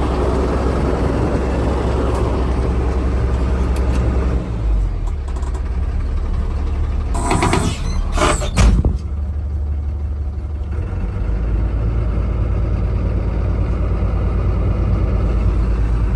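Truck engine running steadily, its low note changing about four seconds in and again near eleven seconds. Two short hissing bursts a little past halfway.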